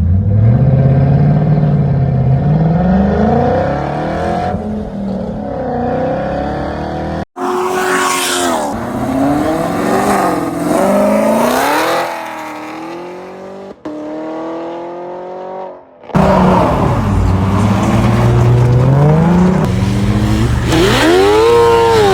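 Car engines revving hard, their pitch climbing and dropping repeatedly, in several clips joined by abrupt cuts.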